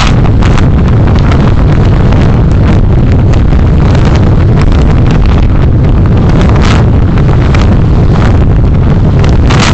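Car driving, picked up by a dashcam's microphone: a loud, steady low rumble of engine and road noise, with frequent short knocks and rattles.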